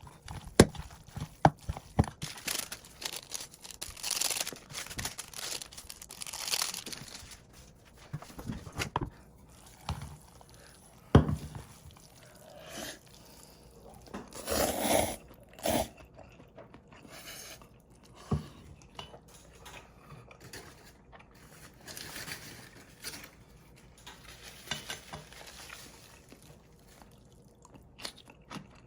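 Close-miked mukbang eating sounds from a bowl of cold, sauced bibim noodles: sharp clicks of chopsticks on the bowl between several longer wet slurping and mixing noises.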